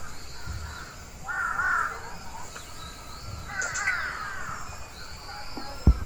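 Wild birds calling in trees: two bouts of harsh, cawing calls, about a second in and again near four seconds, with a faint thin higher call after the second bout. A short low thump comes just before the end.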